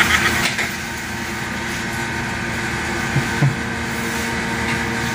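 Steady machine hum with a few soft knocks a little after three seconds in.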